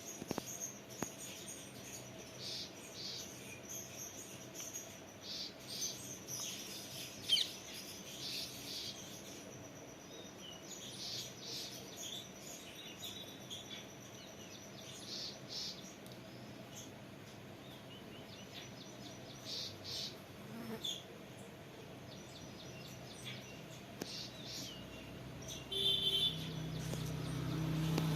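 House sparrows chirping: many short, scattered chirps throughout, with a louder run of chirps near the end. A low hum comes in under them near the end.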